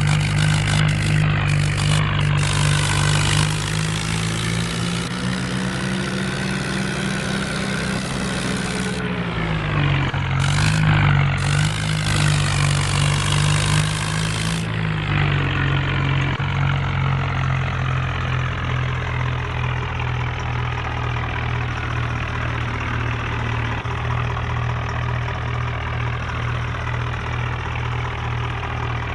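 Kubota tractor's diesel engine running steadily, its pitch dipping and recovering briefly about ten seconds in. A hiss lies over it for the first half and stops about fifteen seconds in.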